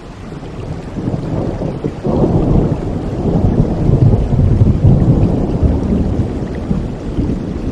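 Steady heavy rain with a long roll of thunder that swells suddenly about two seconds in, rumbles loudest in the middle and eases off near the end.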